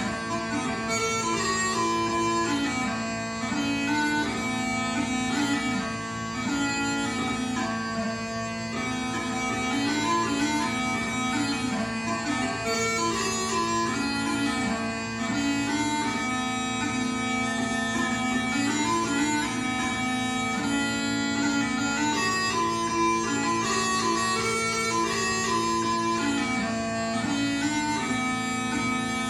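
Smallpipes playing a lively tune: a fast, ornamented chanter melody over steady, unbroken drones.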